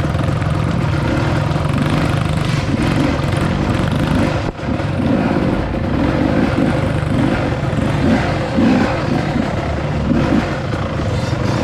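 Dirt bike engine running under way, its revs rising and falling over and over, with a brief drop in loudness about four and a half seconds in.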